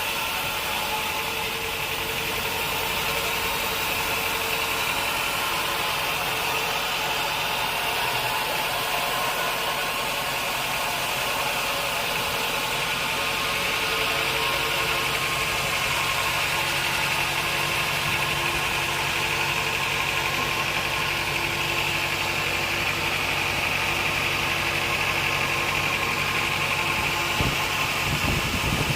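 Sawmill machinery running steadily: an even motor hum with a constant hiss above it.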